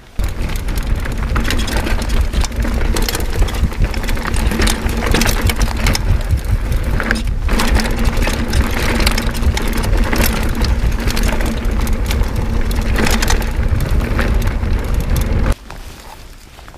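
Mountain bike, an Orbea Loki on plus tyres, ridden fast down a rough trail: tyres crunching over gravel and stones, the bike rattling and clattering, with heavy wind rumble on the camera. It cuts in suddenly and stops abruptly near the end, with a brief break about halfway through.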